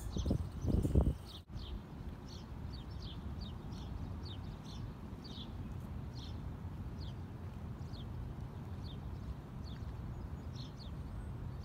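A songbird chirping over and over in short falling notes, about two a second, above a steady low outdoor rumble. A few heavy thumps in the first second.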